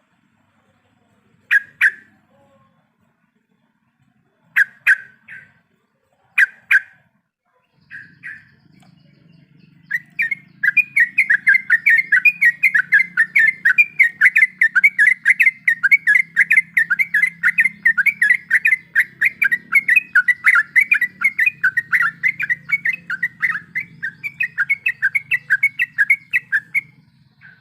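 Yellow-vented bulbul (trucuk) calling: a few short chattering phrases, then from about ten seconds in a long, fast run of repeated notes at several a second that lasts until near the end.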